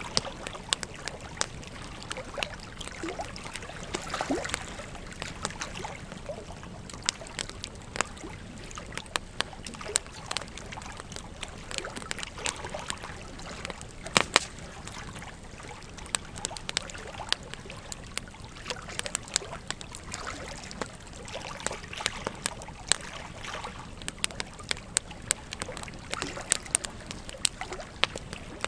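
Wood campfire crackling, with irregular sharp pops and snaps; a loud double pop comes about halfway through. Underneath runs the steady rush of a flowing river.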